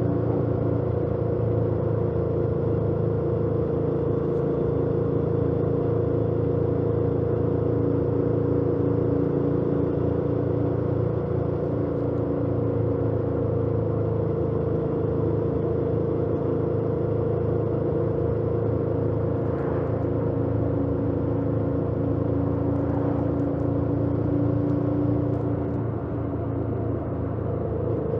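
2018 Yamaha MT-07's 689 cc parallel-twin engine through its stock exhaust, running at a steady cruise on the road. Near the end the engine note dips a little and shifts in pitch.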